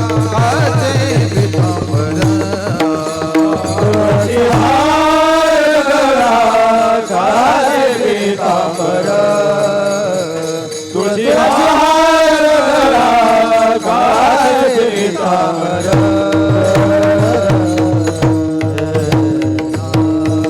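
Devotional kirtan music: a singer holds long, wavering wordless notes that rise and fall over a steady drone, with a hand drum beating a regular rhythm at the start and again near the end.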